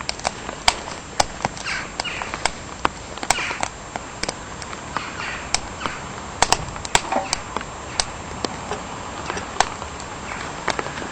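Wood fire crackling in a small wood-burning camp stove, with irregular sharp pops over a steady hiss.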